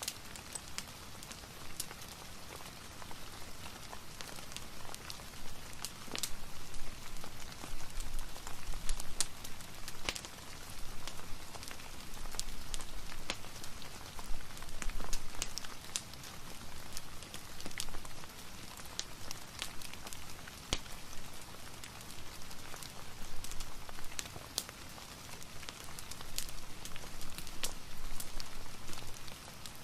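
Soft steady rain mixed with a fireplace crackling: an even hiss of rain with frequent small, sharp pops and ticks scattered throughout.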